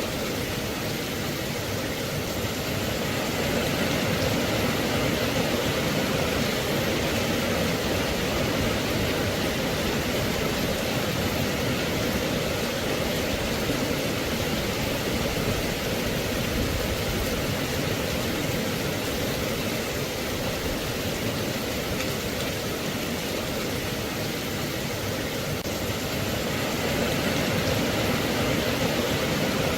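Steady rain, a dense even hiss that swells slightly a few seconds in and again near the end.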